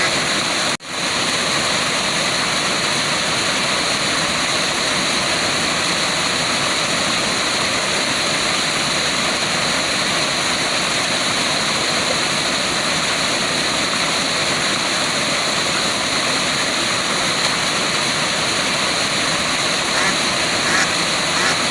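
Waterfall: water falling in a steady, unbroken wash, with a brief cut-out about a second in.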